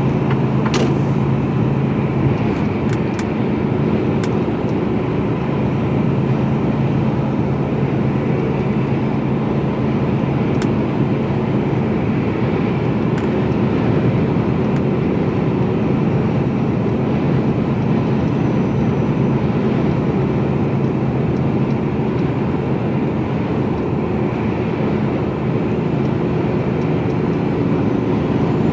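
Steady running noise inside the cab of a Mercedes-Benz Actros lorry at cruising speed: a constant engine drone under road and tyre noise.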